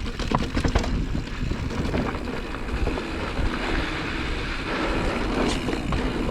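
Mountain bike riding down a dirt trail: tyres rumbling over the ground and the bike knocking and rattling over bumps, with wind on the microphone.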